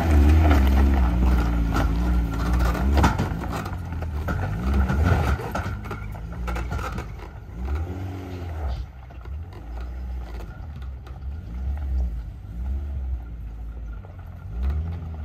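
Car engine hauling a boat on its trailer up a gravel track, revving up and falling back several times as it pulls away and fades into the distance. Gravel crunches and pops under the tyres.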